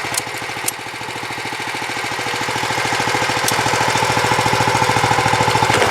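BCS 749 two-wheel tractor's 13-horsepower engine running with a rapid, even pulse while driving a dual action sickle bar mower, growing steadily louder. A couple of light clicks sound in the first second.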